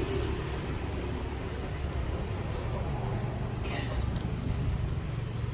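Steady low rumble of road traffic, with a few faint clicks and a brief scrape about four seconds in.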